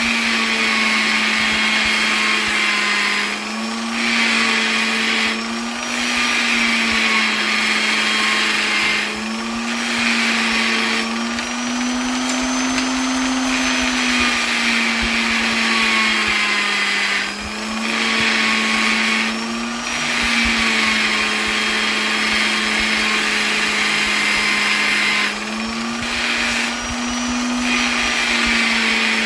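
Electric polisher running continuously: a steady motor whine with a bright hiss, its pitch wavering slightly up and down, with brief dips in level every few seconds.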